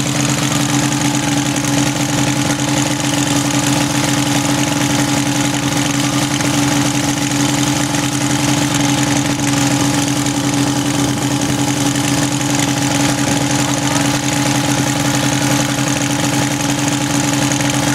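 Lawn tractor engine running steadily at an unchanging pitch.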